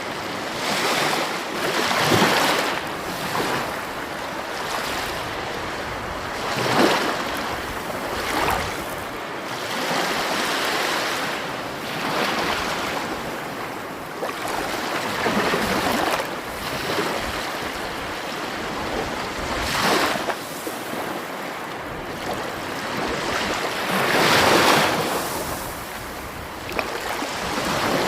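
Sea waves breaking and washing in, the rush of water swelling every few seconds.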